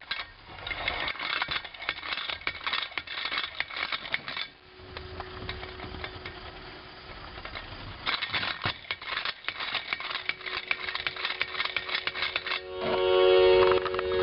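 Ohio Arts tin toy top: two bouts of rapid rattling clatter as it is worked up to speed, then near the end its spinning hum starts up, a loud chord of several steady tones.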